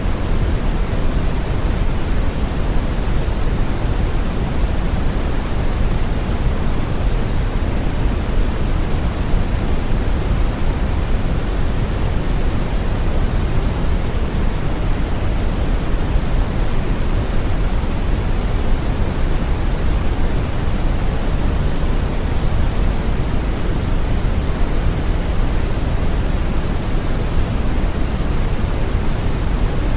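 Steady brown noise: an even, deep rushing hiss weighted toward the low end, with no change.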